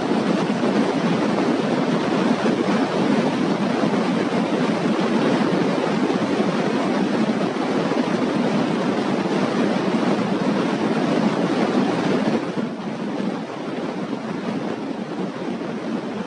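Thousands of starlings calling at once, blending into a steady, dense din that drops a little in level about twelve seconds in.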